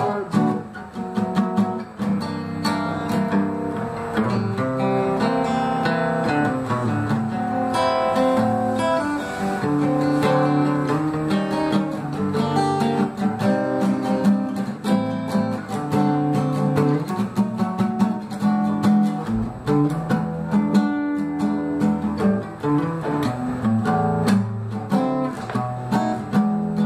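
Acoustic guitar strumming and picking chords steadily: an instrumental break with no singing.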